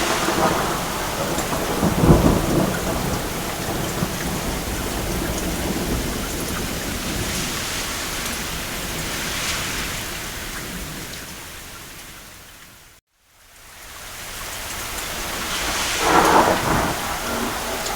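Steady rain with distant thunder rumbling, a swell about two seconds in and another near the end. About two-thirds of the way through, the sound fades almost to silence and straight back in, like a loop seam in the recording.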